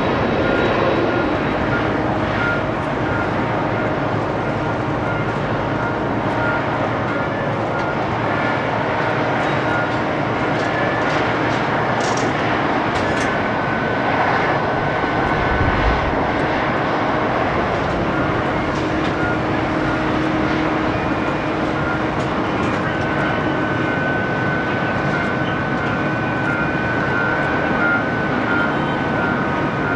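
Rolls-Royce Trent 1000 jet engines of an All Nippon Airways Boeing 787-8 running steadily: an even rush with a thin high whine that comes and goes.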